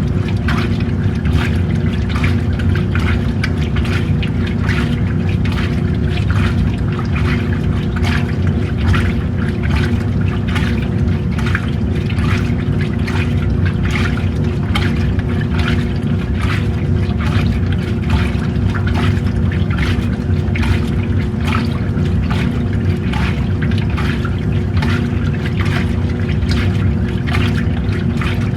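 Old-style washing machine running: a steady motor hum under water sloshing and churning in the tub, in an even, repeating rhythm.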